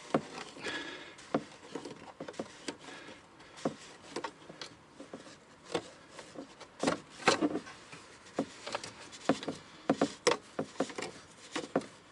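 Irregular clicks, light knocks and scrapes of a car's fuel pump retaining ring being turned loose by hand on the fuel tank, with a few sharper clacks partway through.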